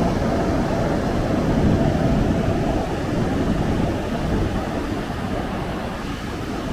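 Steady rush of ocean surf mixed with wind rumble on the microphone, easing off a little in the second half.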